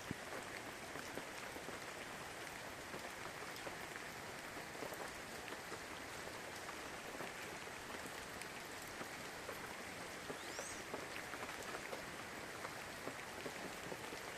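Steady rain pattering: an even hiss dotted with many small drop hits. A single brief high chirp about ten seconds in.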